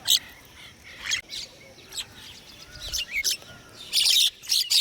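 Small birds chirping: short, high calls a second or so apart, breaking into a dense run of rapid chirps near the end.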